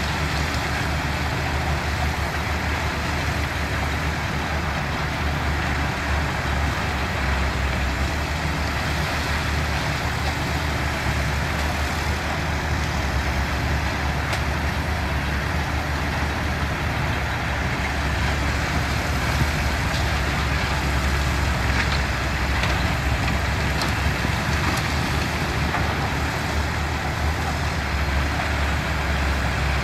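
Diesel engines of heavy construction machinery running steadily: a deep, constant engine drone with a few faint clanks.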